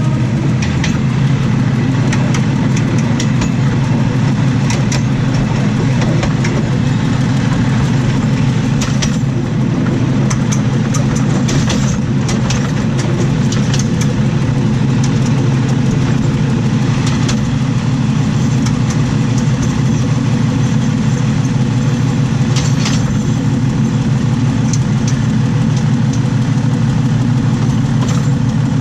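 Steady loud rumble and low drone of a diesel railcar running along the track, heard from right beside the wheels and axle, with scattered sharp clicks and knocks from the wheels on the rail.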